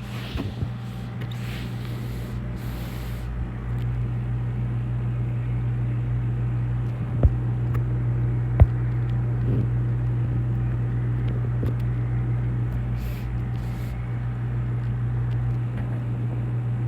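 Aquarium equipment running with a steady low hum over a faint hiss of moving water, with two sharp clicks about a second and a half apart around the middle.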